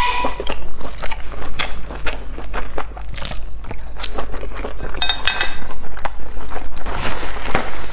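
Close-miked chewing of a dumpling, with wet mouth clicks and smacks throughout. Chopsticks clack lightly against the ceramic bowl.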